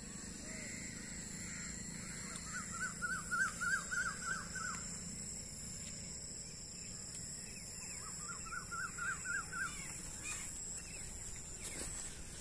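A bird calling outdoors in two quick runs of repeated short notes, about three a second, the first run a little longer than the second, over a steady low hum and a faint high-pitched drone.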